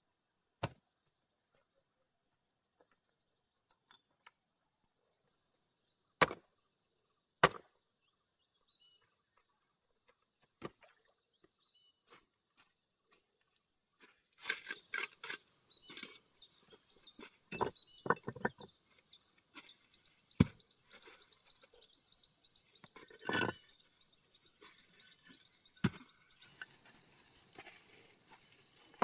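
A few sharp, isolated strikes of a hand tool several seconds apart, then from about halfway a busier run of knocks and scraping. A high chirping trill runs through the second half.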